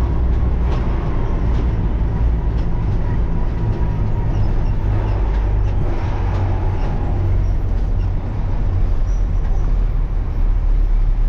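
Large diesel farm machine engine running steadily, a loud low hum with no change in pitch.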